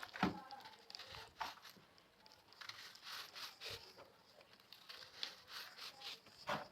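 Crunchy salt being crushed: irregular crunches and crackles, with sharper cracks just after the start and near the end.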